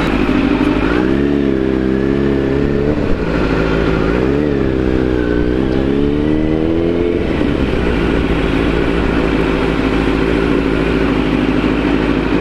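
Kawasaki Z900's inline-four engine through an Akrapovic full-system exhaust while riding, its pitch rising and falling with the throttle between about one and seven seconds in, then holding steady.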